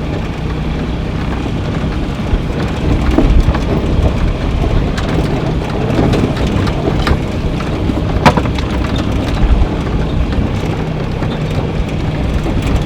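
A vehicle's engine running while driving, with wind buffeting the microphone and scattered knocks and rattles.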